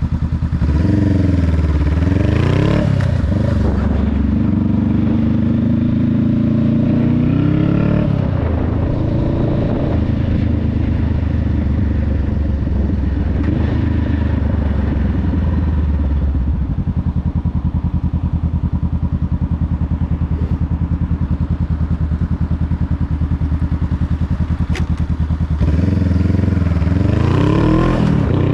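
2021 Honda Rebel 500's parallel-twin engine and exhaust under way: it revs up and drops in pitch with gear changes in the first few seconds, runs steadily for a long stretch, then revs up through the gears again near the end.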